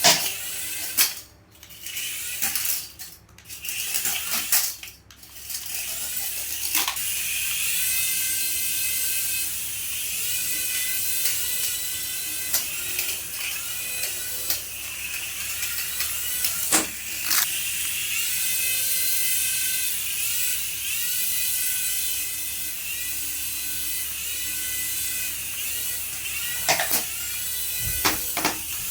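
Small electric motor of a remote-control toy whining, its pitch stepping and gliding up and down as the speed changes, over a steady hiss, with a few sharp clicks and knocks.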